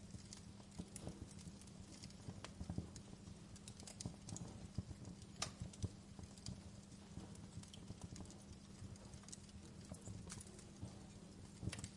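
Wood fire burning in a fireplace, crackling: irregular sharp pops and snaps over a steady low rumble, with a few louder pops about five and a half seconds in and near the end.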